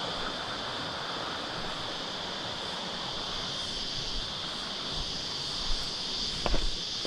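Steady rush of water over stream rapids, with a steady high-pitched insect chorus over it. There are a couple of short knocks near the end.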